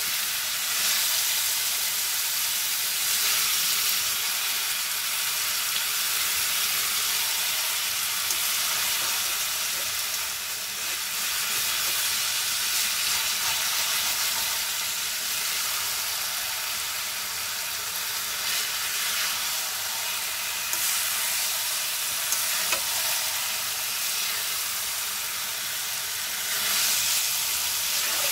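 Potatoes, peas and other vegetables sizzling as they stir-fry in oil in a karahi, a steady hiss, while a spatula stirs through them.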